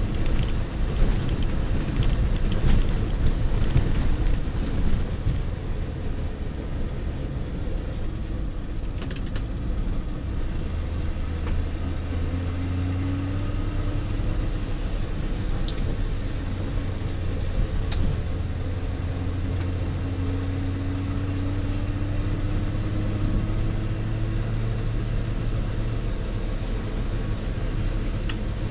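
In-cabin sound of a 1966 DKW-Vemag Belcar's three-cylinder two-stroke engine running as the car is driven. The engine's pitch rises slowly twice as the car picks up speed.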